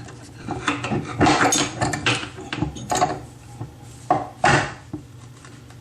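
Irregular scraping, clicking and knocking of a hand tool working against the metal fittings under a bathroom sink, trying to loosen a stuck faucet part that will not come off.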